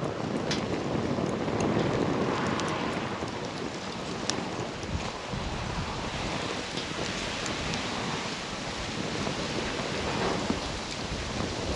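Wood campfire burning: a steady rushing of flames with scattered sharp crackles and pops.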